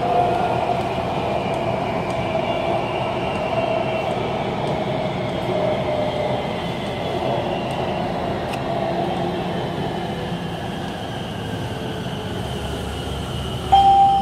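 BTS Skytrain electric train heard from inside the carriage, running with a motor whine that falls slowly in pitch as the train slows for the next station. Just before the end, a loud steady tone suddenly starts.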